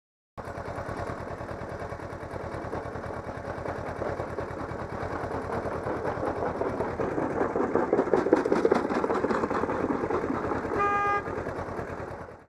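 Vehicle engine and road noise, rapidly pulsing and swelling louder in the middle, with a short car horn blast near the end.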